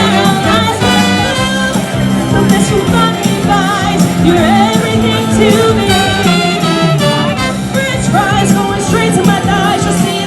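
Women's vocal group singing a song over instrumental backing with a repeating bass line.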